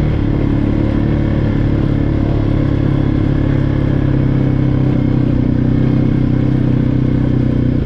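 2014 TGB Blade quad bike's engine running hard at a steady pitch while being ridden at speed.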